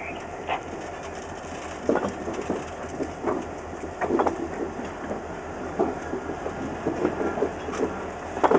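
Railcars rolling slowly during switching, with irregular metallic clanks and creaks over a steady low rumble.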